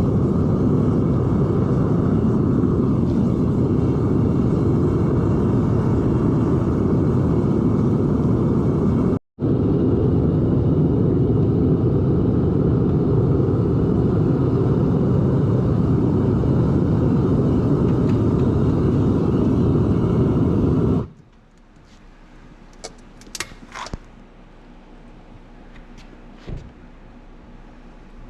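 Propane burner of a Devil Forge melting furnace running with a steady, loud rush while copper melts. It breaks off for an instant, then stops suddenly about two-thirds of the way through, leaving a much quieter stretch with a few light clinks.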